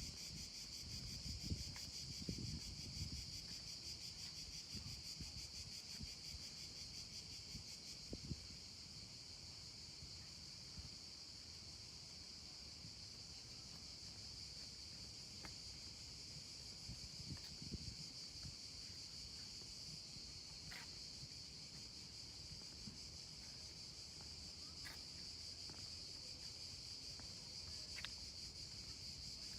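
Steady, high-pitched insect chorus, unbroken throughout, with low irregular thuds that are heaviest in the first eight seconds and return briefly around the middle.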